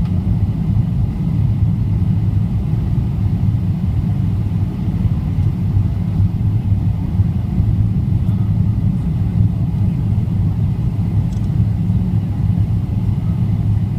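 Steady, loud low rumble inside the passenger cabin of a Boeing 777-300ER, from its engines and the air rushing past the fuselage.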